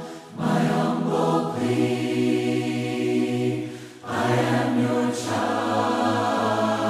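A group of voices singing a hymn a cappella, holding long notes in harmony, with short pauses for breath between phrases just after the start and about four seconds in.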